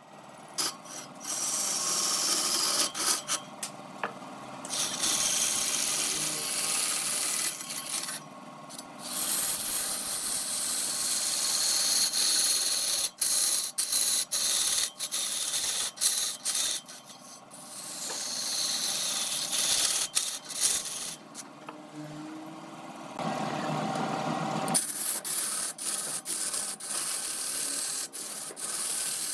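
A turning tool cutting into spinning wood on a lathe. It makes a hissing, rasping scrape that runs in stretches of several seconds, with short breaks where the tool comes off the wood.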